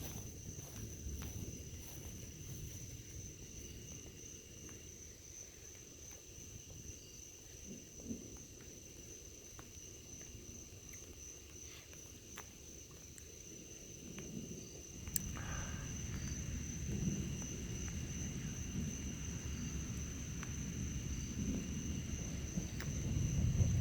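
Night insects chirping in a steady high chorus. Under it runs a low rumble that swells in the second half, and there is a single sharp click about fifteen seconds in.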